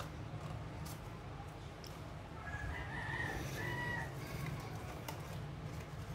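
A bird's drawn-out call, heard once for about a second and a half, over a steady low hum. A few faint clicks come from paper being folded by hand.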